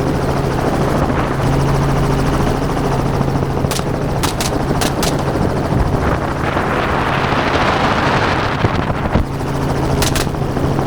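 Helicopter running steadily with its rotor and engine noise, while rifle shots crack out in a quick string of about four shots around four to five seconds in and two more close together near the end.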